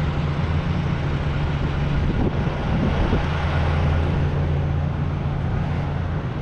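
Heavy diesel truck engine idling, a steady low hum over a wash of engine and road noise.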